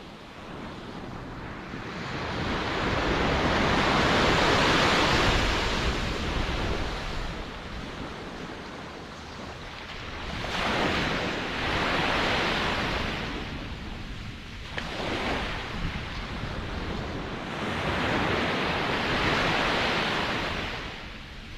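Ocean surf: waves break and wash in as three big swells of rushing noise about seven seconds apart, with a smaller one between the last two, over a constant low rumble.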